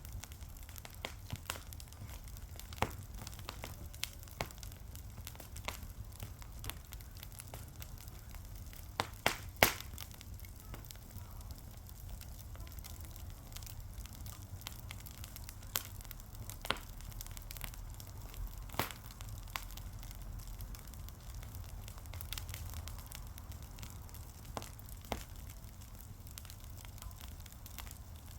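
Fire crackling: irregular sharp pops scattered over a low steady rumble, with a cluster of louder pops about nine to ten seconds in.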